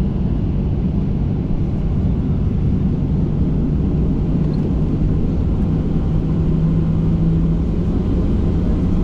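Boeing 737-800's CFM56-7B jet engines heard from inside the cabin during the take-off run: a steady rumble with a low hum.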